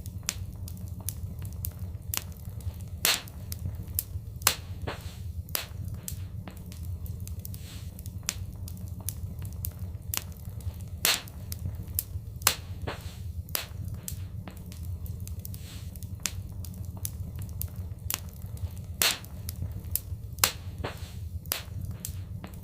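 Fireplace fire crackling, with irregular sharp pops several times a second and a few louder snaps, over a steady low rumble.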